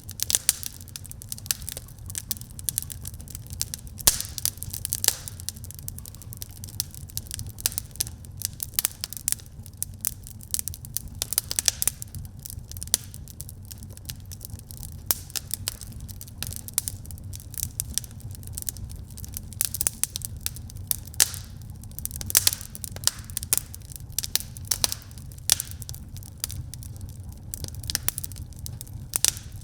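Wood fire burning in a fireplace: a steady low rumble of the flames under frequent, irregular crackles and sharp pops from the burning logs.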